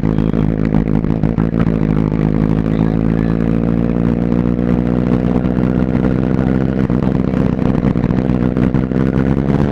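Superbike engine running at a steady speed while riding, holding an even pitch.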